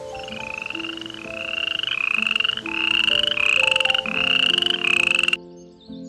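Frog calls: a run of rapid pulsed croaks, each about half a second long and rising slightly in pitch, repeated back to back over soft background music of held notes. The calls stop abruptly near the end.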